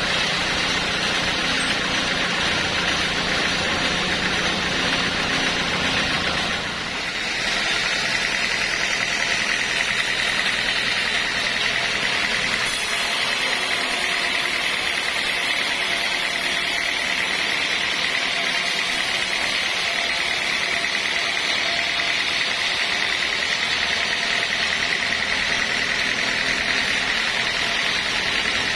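Sawmill machinery running steadily. About a quarter of the way in, a low hum drops away and a steady high whine takes over.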